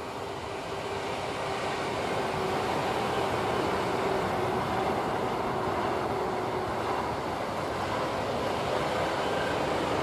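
Pesa Dart ED161 electric multiple unit passing at speed: a steady rush of wheels on rail with a faint steady hum through it, growing louder over the first couple of seconds and then holding.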